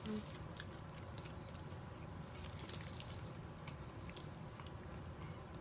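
A person chewing a mouthful of burger, with faint irregular mouth clicks over a steady low room hum.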